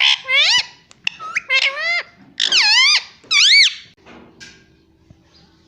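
Indian ringneck parrot making a rapid run of loud, high, squeaky calls, each one swooping up and down in pitch. The calls stop about four seconds in.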